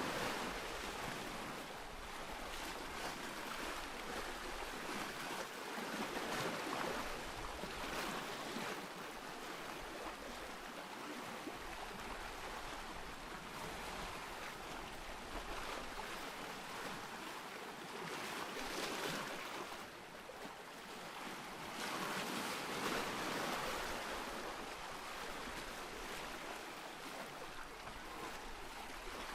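Ocean surf: a steady rush of breaking and washing waves that swells louder and eases off every several seconds.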